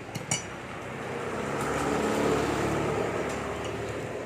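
A motor vehicle passing by, its noise swelling to a peak a little after the middle and then fading, after a couple of light clicks at the start.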